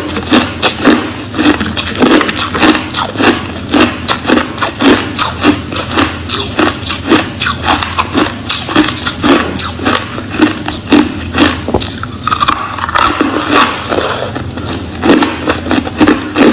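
Crushed clear ice being bitten and chewed close to the microphone: a steady run of crisp crunches, about two to three a second.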